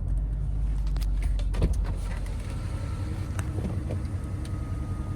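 Cummins 5.0-litre V8 turbo diesel idling, heard as a steady low rumble from inside the truck's cab, with a few light clicks.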